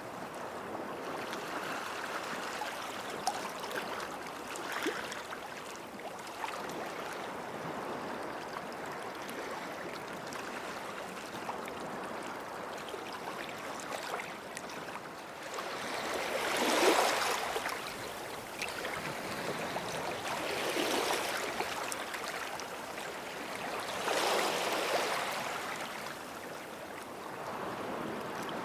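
Small sea waves washing onto a beach in a steady hiss, with three louder waves breaking and rushing up the shore in the second half.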